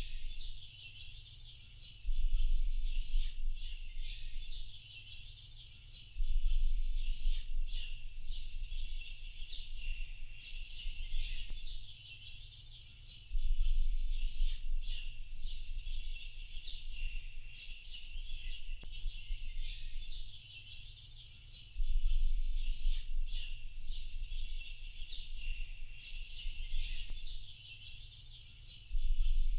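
A dense chorus of many small birds chirping and twittering without a break. Under it, a low rumble swells up and dies away five or so times.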